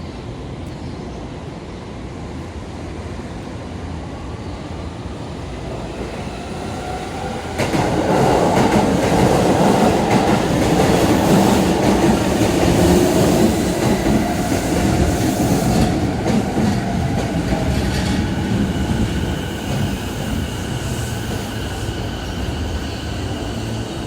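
A train running past at the station platform: its rumble builds, jumps sharply about seven and a half seconds in, and stays loud with wheel clatter for several seconds before easing off. Thin high squealing tones come in near the end.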